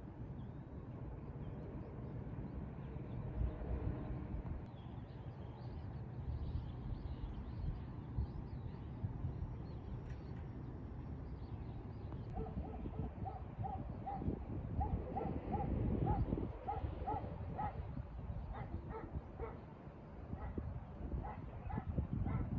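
A dog barking repeatedly, about three barks a second, starting about halfway through, over a steady low rumble.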